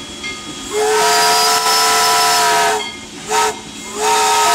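Steam locomotive whistle blowing a long blast, a short blast, and then another long blast that starts near the end. Each blast is a steady chord of several notes over a hiss of steam. With the long blast just before, this is the long-long-short-long pattern of a grade-crossing signal.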